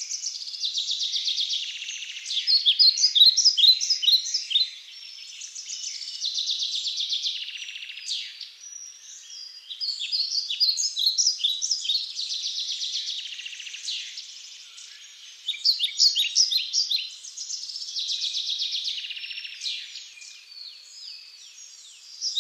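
A songbird singing: long phrases of rapid high trills and chirps, each a few seconds long, with short pauses between them.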